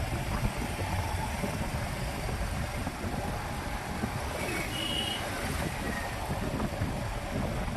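Steady rumble of wind on the microphone and road traffic during a motorbike ride through city streets, with a brief high tone about five seconds in.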